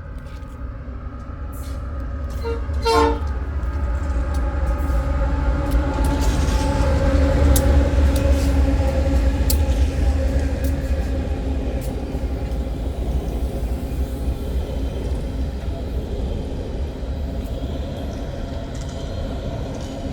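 Diesel freight train passing: a short horn toot about three seconds in, then the heavy rumble of the locomotive swells to its loudest around eight seconds and eases off, with clicks of wheels over the rails.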